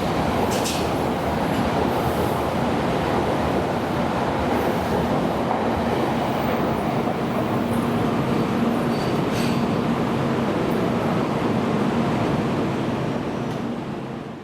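700-series Shinkansen train running slowly out of the station: a steady rumble of wheels and running gear, with a faint steady hum midway and a couple of brief high clicks. The level drops just at the end.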